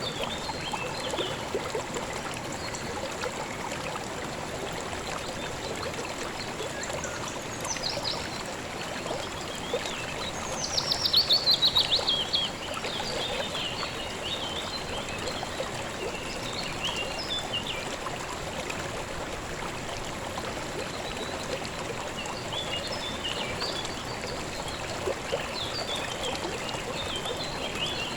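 Calm river water flowing steadily, with birds calling now and then. About ten seconds in, a bird sings a loud, rapid run of notes that falls in pitch over about two seconds.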